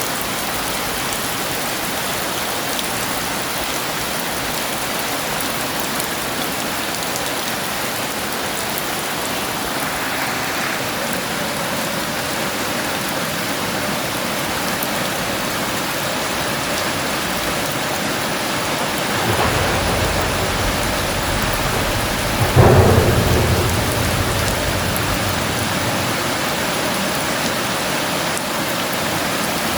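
Heavy rain falling steadily. About two-thirds of the way through, thunder rumbles in and peaks in a sharp crack, then rolls off under the rain.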